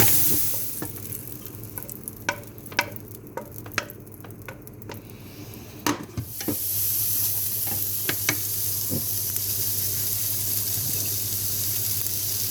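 Food sizzling in a frying pan, with utensils clicking and knocking against the pan. The sizzle drops away about half a second in, leaving a few seconds of scattered clicks, and returns steadily at about six seconds.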